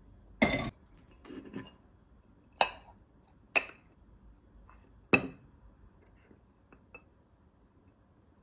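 Dishes and glassware clinking as they are handled: four sharp, ringing clinks spread over about five seconds, with softer knocks between them and two faint ticks near the end.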